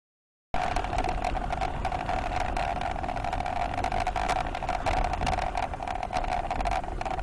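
A car driving, with steady road and engine noise heard from inside the cabin through a dashcam microphone, peppered with small clicks. It starts abruptly about half a second in, after a moment of dead silence.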